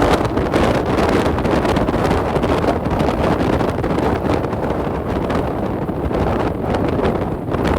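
Off-road vehicle driving along a dirt trail: steady engine and tyre rumble, with wind buffeting the microphone.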